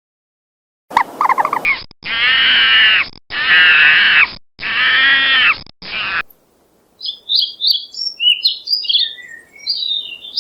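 Three long, wavering animal calls, each about a second, with a short call just before them. After a brief pause comes a run of quick, high bird chirps.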